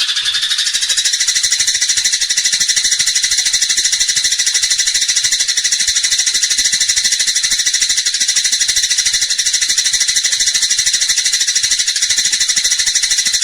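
Eurasian tree sparrow giving a fast, steady, high-pitched rattling chatter without a break, the aggressive 'fighting' call of the species.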